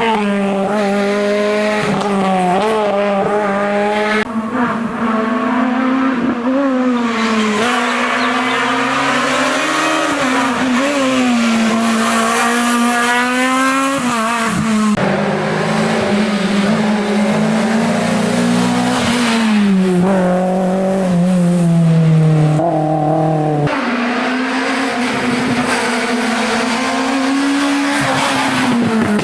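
Rally cars driven hard through a special stage, one after another. Each engine revs up and falls back as the car brakes, changes gear and accelerates past. There are sudden changes from one car to the next at about four, fifteen and twenty-four seconds in.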